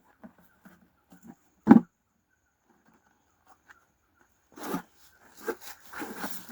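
Scattered handling sounds from a wooden beehive box and its frames: a few faint knocks, one louder short knock a little under two seconds in, then rubbing and scraping of wood near the end.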